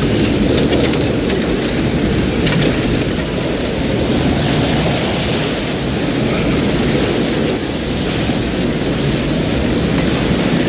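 Thunderstorm noise: a loud, steady rush of wind and heavy rain with a deep rumble underneath.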